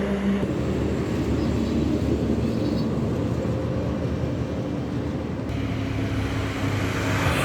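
Steady low rumble of road traffic and vehicle engines, changing abruptly twice, about half a second in and again a little past two-thirds of the way through.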